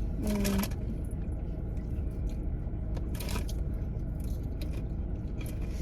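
Steady low rumble of a car cabin, with snack packaging crinkling and crunching in short bursts three times.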